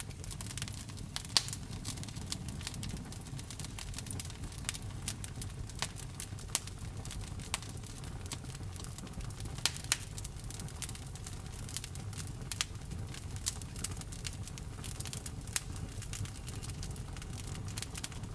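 Wood fire burning, crackling with many irregular small snaps and a few louder pops, over a steady low rumble.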